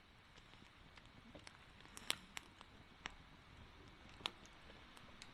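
Faint campfire crackling: a few sharp, isolated pops at irregular intervals over a quiet hiss.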